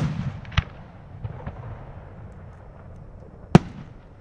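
Aerial fireworks shells bursting. A sharp bang comes about half a second in, two fainter pops follow around a second and a half, and a loud single bang comes near the end. A low rumble of bursts fades at the start.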